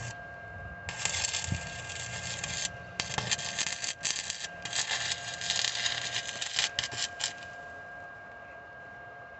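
Welding arc crackling in several bursts over about six seconds, stopping and restarting as the welder lays beads on the vacuum plate. A faint steady hum sits underneath.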